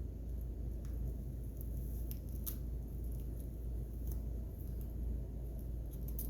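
A few small, faint scissor snips and hair being handled as a glued-in ponytail weave is cut away, scattered clicks over a steady low hum.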